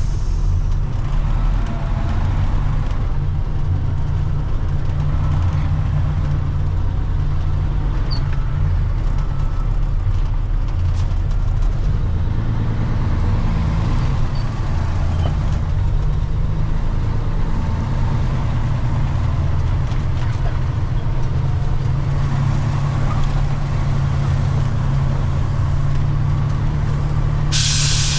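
Heavy truck's diesel engine running steadily under way, with a short burst of hiss near the end.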